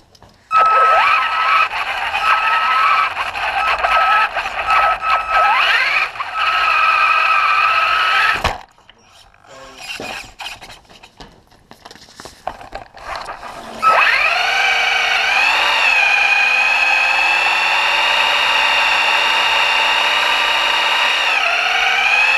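Traxxas RC truck's motor whining, its pitch rising and falling as it is throttled up and down. After a few quieter seconds of scattered clicks, it settles into a long, steady high whine.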